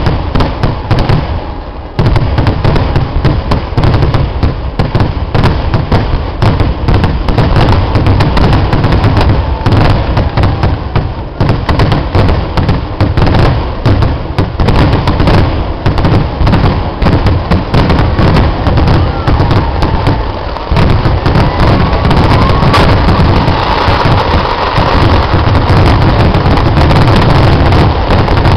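Pooram temple-festival fireworks (vedikettu): a dense, unbroken barrage of firecracker cracks and booms, overlapping so fast they merge into one continuous din. The barrage eases briefly and comes back at full force about two seconds in.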